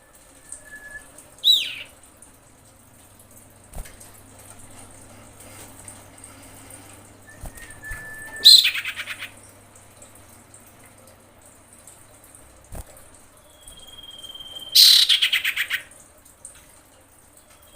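Female common iora calling three times. Each call is a short steady whistle followed by a louder burst: first a quick falling note, then a rapid chattering trill, the last trill the longest. It is the call of a hen in breeding condition calling for a male.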